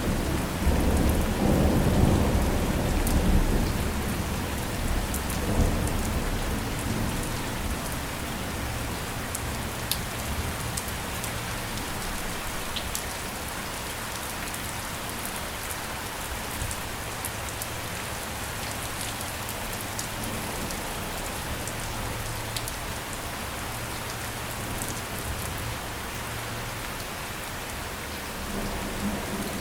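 Steady rain falling, with scattered sharp drop ticks. A low rumble of thunder dies away over the first few seconds.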